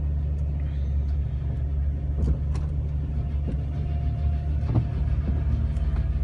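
Jeep Wrangler TJ driving on a thin layer of snow over pavement, heard from inside the cabin: a steady low engine and road drone with a few light knocks.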